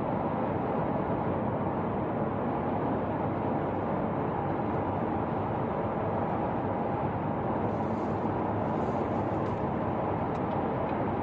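Steady road and tyre noise of a moving car, an even rush with no clear engine note or change.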